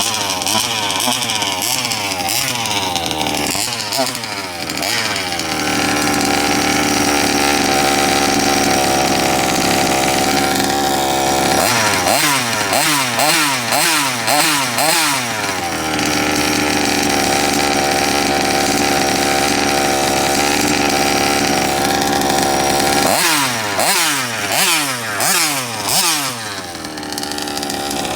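Rovan 34cc two-stroke engine of an RC Baja on its first run: quick throttle blips rising and falling in pitch, then held at a steady high rev for several seconds, twice over, before more blips near the end.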